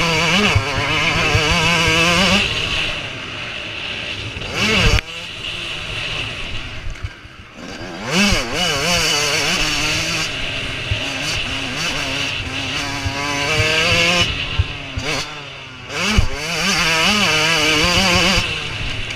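Motocross motorcycle engines revving hard and backing off again and again as bikes go by, the pitch rising and falling with each throttle change, with louder swells as bikes come closer.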